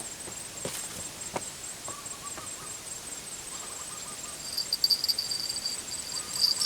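Evening insects trilling: a pulsing high-pitched insect chorus sets in about two-thirds of the way through and grows louder, after a couple of short, faint wavering animal calls in the middle.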